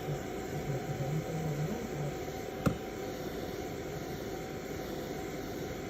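Hair dryer blowing with a steady whoosh, and a single sharp click about two and a half seconds in.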